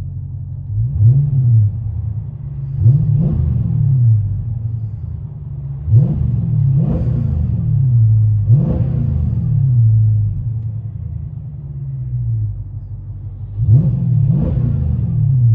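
Dodge Challenger Scat Pack's 6.4-litre HEMI V8, heard from inside the cabin, idling and revved in about seven quick blips that rise and fall back to idle. The exhaust runs Vibrant bottle resonators in place of the mid resonators, with the rear mufflers deleted.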